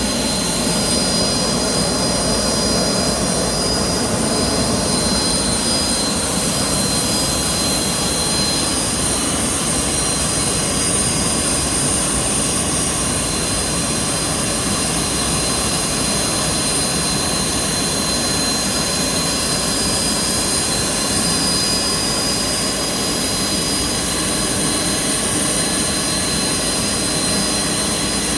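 Airbus A319's gas turbine running steadily: an even, loud rush with constant high whining tones on top, not changing in pitch.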